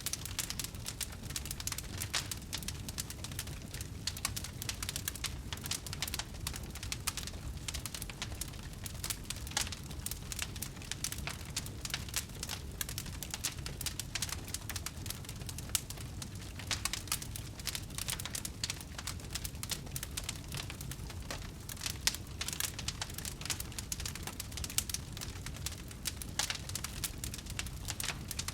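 Wood fire burning, with a continuous crackle of dense small snaps and an occasional louder pop over a low rumble of flames.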